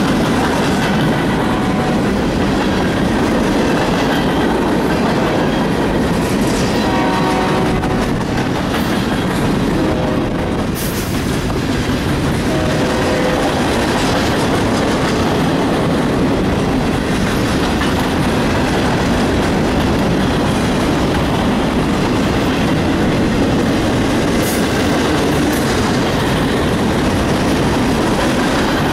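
A freight train's boxcars rolling past close by: a loud, steady rumble of wheels on rail. Brief high ringing tones rise out of it about seven seconds in and again around ten to thirteen seconds.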